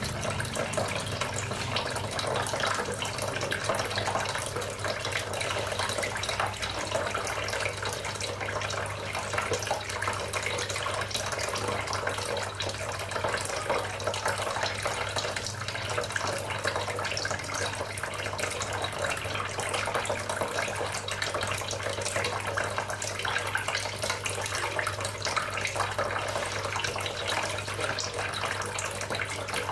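Small homemade tabletop water fountain running, water trickling and splashing steadily, with a steady low hum underneath.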